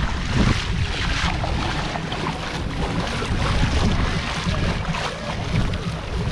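Wind buffeting the microphone with a heavy, uneven low rumble, over a steady rushing hiss.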